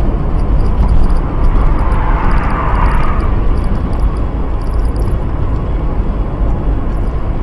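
Steady loud rumble and hiss of a car driving, picked up by a dashcam: road and wind noise, swelling briefly about two seconds in.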